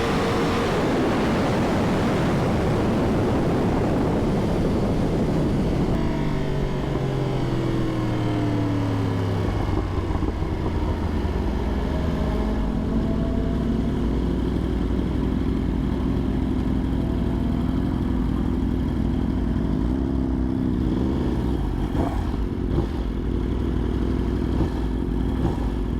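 Yamaha R1 superbike under way with wind noise, its engine note falling steadily in pitch from about six seconds in as it slows, then holding a steady low engine note at low speed or idle for the rest.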